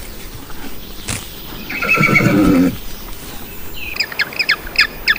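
An animal call: one loud pitched cry about two seconds in, then a run of short, high, falling chirps, about three a second, starting near the end.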